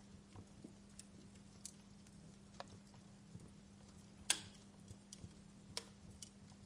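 Wood fire crackling: sparse, irregular sharp pops and snaps, one louder pop a little past halfway, over a faint steady low hum.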